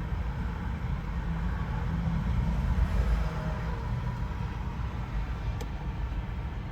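Steady low rumble of a long Canadian Pacific coal train rolling slowly past.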